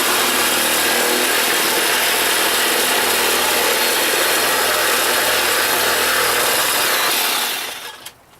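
Chainsaw running flat out as it cuts through a plastic toy helmet, a loud, even noise that dies away near the end.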